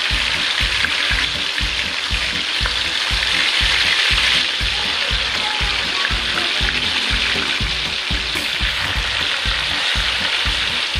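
Marinated chicken fillets deep-frying in a pan of hot oil: a loud, steady, dense sizzle. Background music with a steady low beat runs underneath.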